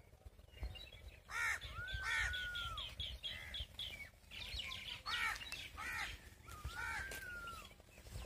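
Several birds calling in farmland: harsh arched calls repeated a few times, long whistled notes that drop in pitch at the end, and a quick run of short high chirps about a third of the way in, over a low rumble of wind on the microphone.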